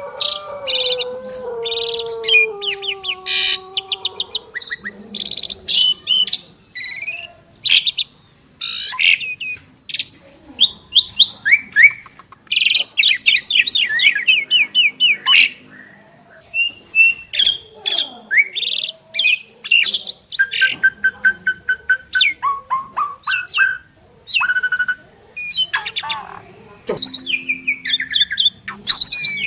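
Two Asian pied starlings singing in a long, varied duet of whistles, chirps, quick rattling note series and short harsh notes, with a lower, drawn-out falling call in the first few seconds.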